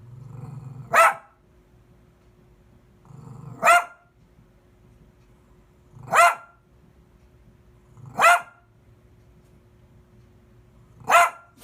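A dog barking five single barks, spaced about two to three seconds apart. A low growl comes just before each of the first two barks.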